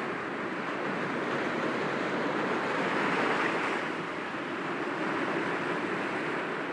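Sea waves breaking gently against rocks, a continuous wash of surf that swells about three seconds in and eases off again about a second later.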